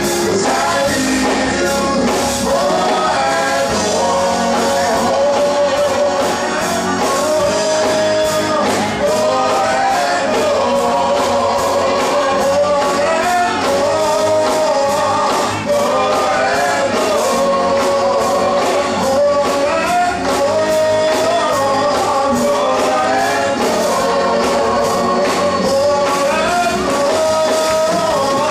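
Gospel music: singing over instrumental accompaniment with a steady percussive beat.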